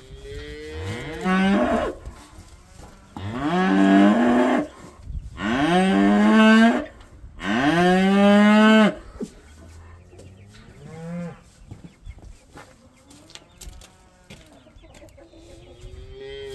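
A cow mooing: four loud drawn-out moos in a row, each about a second and a half, then two fainter calls later on.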